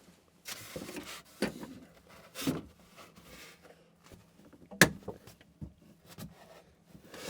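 Hand tools at work on a PEX water line: a short rustle, then a series of separate clicks and knocks, with one sharp snap about five seconds in.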